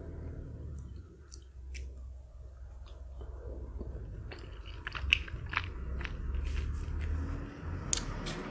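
Close-up chewing of chewy Korean spicy rice cakes (tteokbokki): sticky, wet mouth clicks and smacks, sparse at first and busier from about halfway, over a low steady hum.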